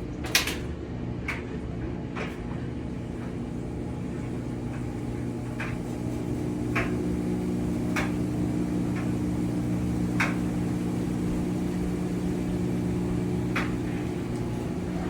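Kenmore Series 100 HE front-loading washing machine in its spin cycle: a steady motor hum that grows gradually louder as the drum speeds up, with a few short sharp clicks scattered through it.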